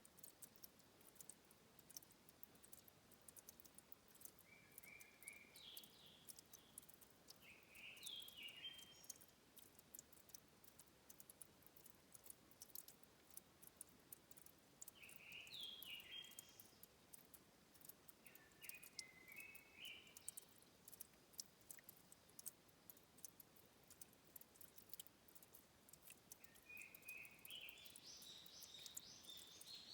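Faint birdsong in three bursts of short phrases, over many scattered faint ticks of water dripping at a spring.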